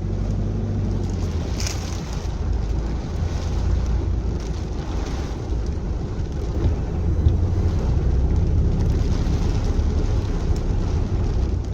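Car driving through flooded streets, heard from inside the cabin: a steady low rumble with a constant wash of water hissing around the tyres.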